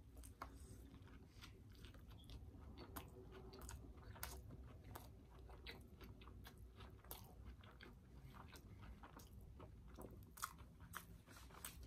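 Faint chewing of a mouthful of burger, with soft, irregular mouth clicks scattered throughout.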